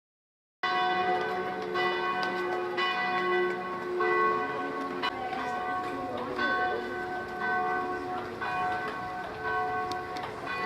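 Church bells pealing, with a new strike about once a second and each one ringing on under the next. The ringing starts abruptly about half a second in.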